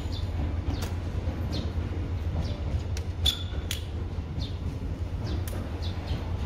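Platform ambience: a steady low rumble, over which a small bird chirps again and again in short falling chirps, with a few sharp clicks, the clearest about three seconds in.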